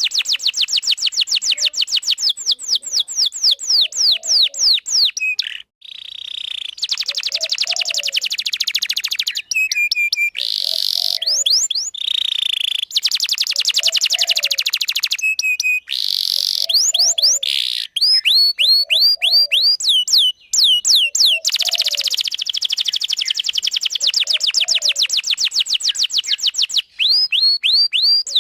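Domestic canary singing a long, unbroken song of rapid trills and rolls. These alternate with runs of quick falling whistled notes, with a few abrupt breaks.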